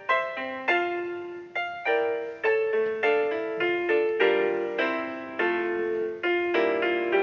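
Piano or keyboard playing the song's introduction: a melody of separate struck notes, a few a second, each fading after it is struck.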